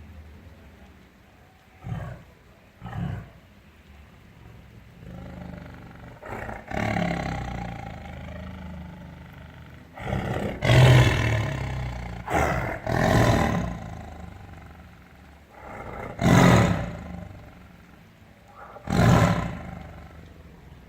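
Tiger roaring in a series of separate calls: two short ones about two and three seconds in, longer ones building to the loudest in the middle, and two more near the end.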